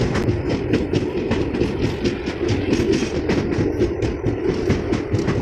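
Express passenger train running at speed, heard from inside a coach: a steady rumble with rapid clattering of the wheels over the rail joints.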